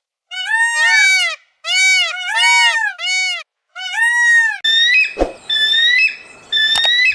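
Animals calling: short, high-pitched calls that rise and fall in pitch, several overlapping, for about four seconds. Higher, flatter calls follow, with a few sharp clicks near the end.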